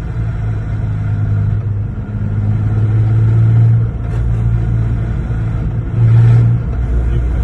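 Lexus GS 300's inline-six engine running under way, with a faint rising tone as it pulls, a dip in level about four seconds in, and a louder surge about six seconds in.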